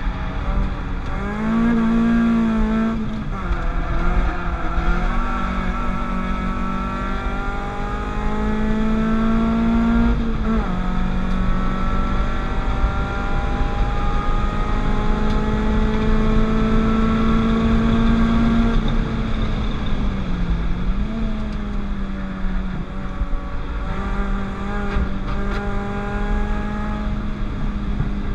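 Peugeot 206 RC four-cylinder 16-valve petrol engine in a 205 GTI, pulling hard on a race track: its pitch climbs slowly through long runs, then dips sharply at gear changes or braking about three seconds in, near the middle and about two-thirds of the way through.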